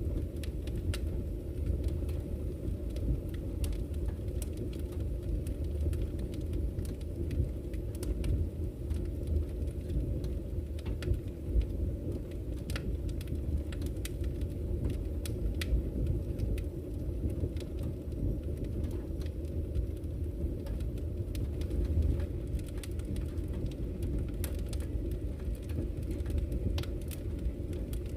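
Campfire crackling, with sharp irregular pops and snaps, over the deep steady rush of flowing river water.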